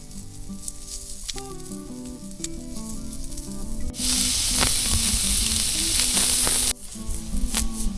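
Food sizzling on a hot cooking surface over a BBQ or campfire: faint ticking and crackling at first, then loud sizzling that starts abruptly about four seconds in and cuts off abruptly near the end. Background music plays throughout.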